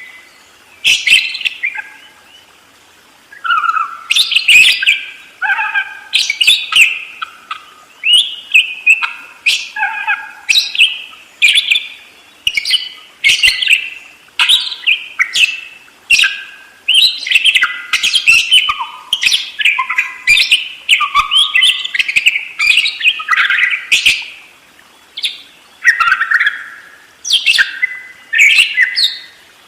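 Budgerigar chattering and warbling without a break: a rapid run of short chirps and scratchy twitters, several a second.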